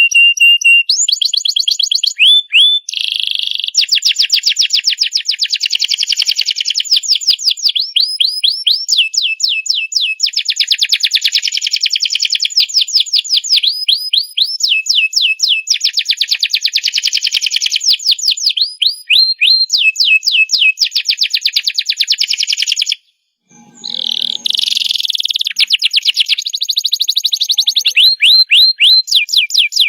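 Domestic canary singing a long, continuous song of fast rolling trills and rapidly repeated sweeping notes, high-pitched, with one short break a little after 23 seconds in.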